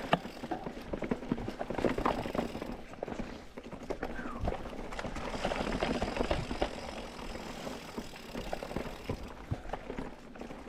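Mountain bike riding over rocky singletrack: tyres rolling on rock and dirt while the bike rattles, with irregular knocks and clicks as it bumps over rocks.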